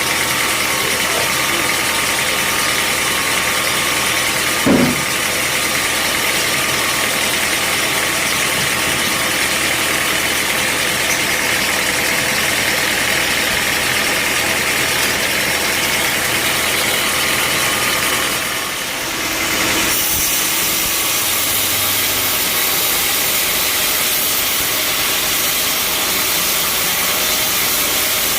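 Bandsaw sawmill machinery running with a steady engine noise, with a single thump about five seconds in. The sound dips briefly past the middle and comes back with more hiss.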